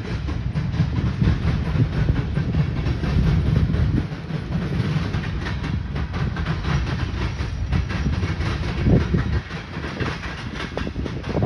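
Manifest freight train rolling past: a steady low rumble of freight cars with the repeated clicking of wheels over rail joints.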